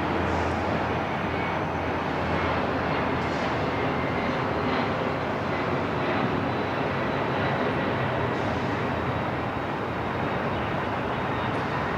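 Steady airport ambience: a continuous low rumble and hiss with the sound of aircraft engines.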